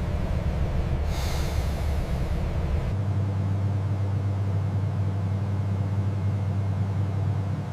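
A low, steady machine rumble with a burst of hiss starting about a second in and lasting about two seconds. About three seconds in, the sound cuts abruptly to a smoother, steady low hum.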